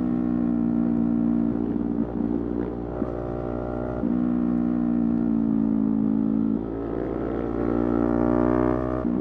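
Yamaha YZF-R3's parallel-twin engine riding along at steady throttle. About a second and a half in it eases off for a couple of seconds, then pulls again; near the end the revs climb steadily and drop back with an upshift.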